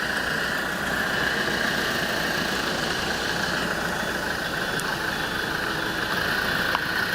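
Miniature railway train running, a steady rumble with a constant higher hiss.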